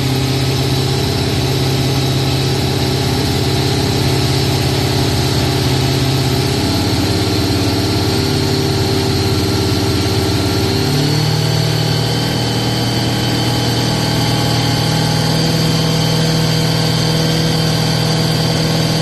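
Rebuilt Holden 253 V8 running steadily on its first start-up, held running to bed in the new camshaft and lifters. The engine speed shifts slightly about seven seconds in and again about eleven seconds in.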